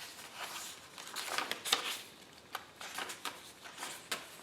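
Paper pages of a handmade journal rustling and flicking as they are handled and turned, with a sharper paper snap a little under two seconds in.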